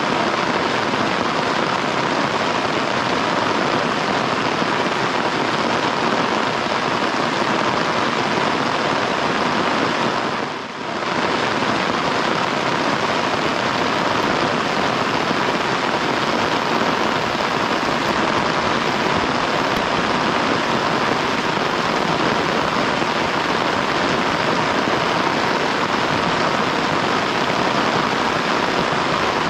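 Heavy rain falling in a steady downpour, with a brief dip in level about a third of the way through.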